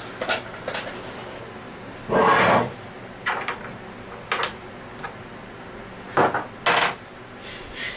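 Irregular rubbing and scraping strokes as the scroll of an Anest Iwata ISP250 scroll vacuum pump is scrubbed clean by hand. The longest and loudest stroke comes about two seconds in, with shorter scrapes scattered through the rest.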